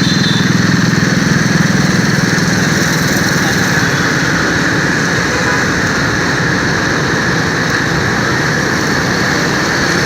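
Steady motorbike engine and road noise heard while riding through city traffic, a little louder in the first few seconds.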